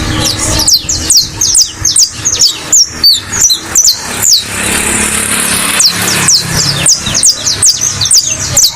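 Saffron finch singing: a fast, steady run of short, sharp notes, each sliding down in pitch.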